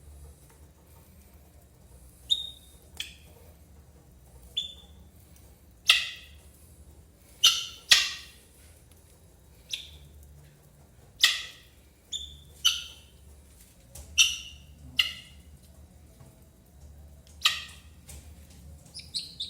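Helmeted guineafowl giving about a dozen short, sharp, harsh calls at irregular intervals, some in quick pairs, each dropping slightly in pitch.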